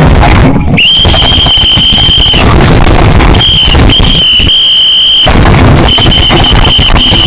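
A loud, shrill, steady high tone sounding in blasts: one of about a second and a half starting about a second in, then several more of a second or so with short gaps between them. A dense low noise runs underneath.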